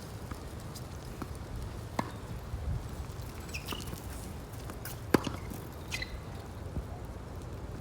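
Wind rumbling on the microphone, with sharp knocks of a tennis ball being struck, one about two seconds in and a louder one about five seconds in.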